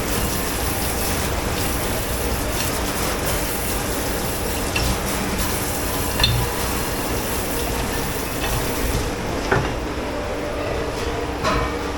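Steady hiss of water spraying in a dish pit, with a few clinks of dishes; the hiss stops about nine seconds in, leaving a steady machine hum.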